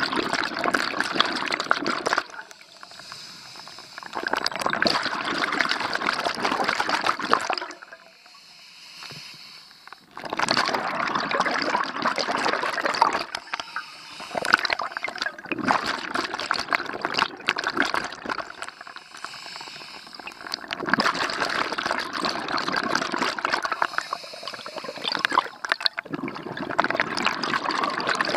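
Underwater bubbling from a scuba diver's exhaled breath venting from the regulator. It comes in long bursts of a few seconds, with quieter pauses between them for inhalation.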